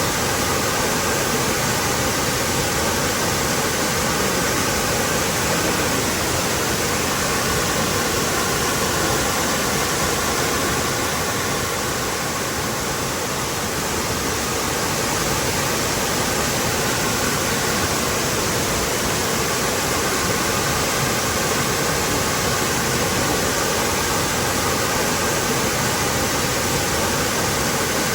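Waterfall pouring steadily: an even, full rush of falling water.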